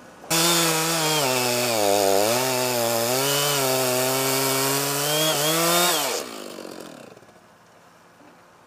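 Two-stroke chainsaw throttled up to cut oak wood, its pitch sagging under the load of the cut and then rising again. It is let off after about six seconds and winds down.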